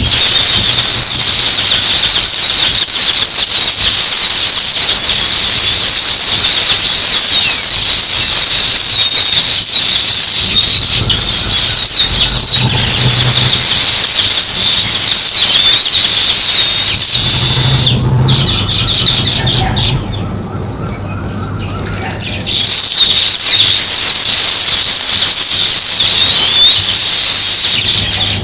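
A flock of weaver birds chirping together, a dense chorus of many overlapping high chirps. The chorus drops away for a couple of seconds about two-thirds of the way through, then picks up again just as busy.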